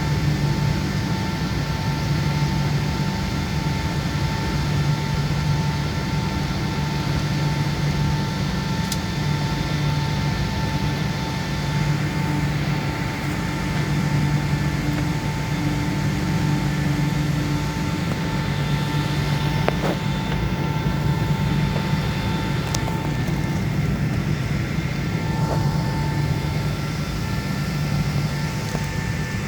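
Steady jet airliner cabin noise before takeoff: a constant low hum from the engines and cabin air system, with several steady whining tones and a few faint clicks.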